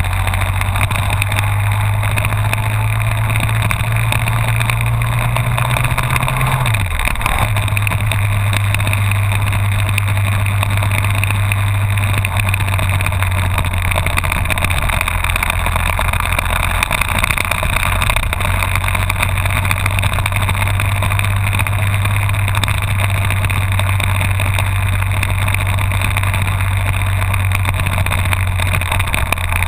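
Honda VFR1200F's V4 engine running under way at steady speed. Its note climbs slightly for the first six seconds, drops sharply about seven seconds in, then holds steady at a lower pitch.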